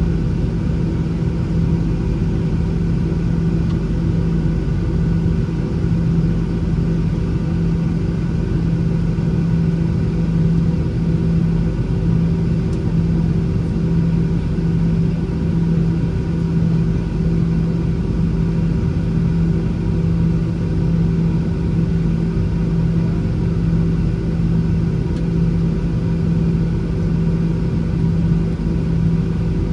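Boeing 737-800's CFM56-7B engines idling, heard inside the cabin as a steady hum with one strong low tone and a rumble underneath.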